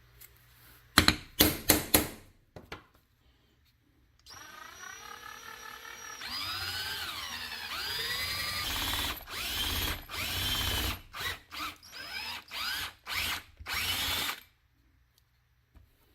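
A few sharp clicks, then a small electric power tool, such as a drill, running in repeated trigger pulls, its motor pitch rising and falling. It ends in a run of short bursts.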